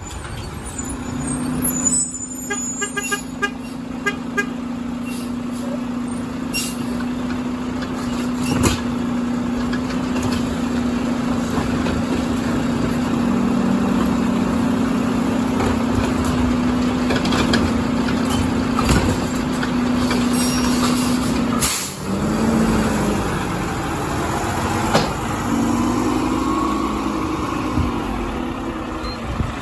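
Garbage truck at work: its engine drones at a steady pitch for about twenty seconds, with scattered knocks and clanks over it. After a sudden break the engine revs rise and fall.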